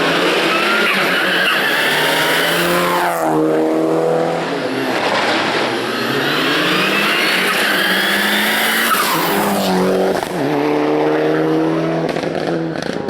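Race car engine at high revs, its pitch climbing and then dropping sharply and rising again, twice: about three seconds in and again near ten seconds.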